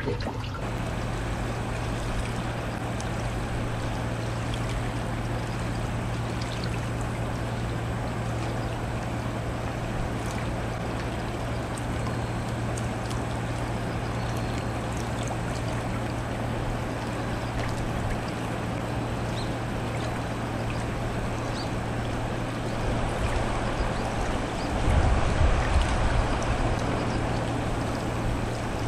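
Steady rush of a river's current flowing, with a constant low hum under it; a louder low rumble comes in for a few seconds near the end.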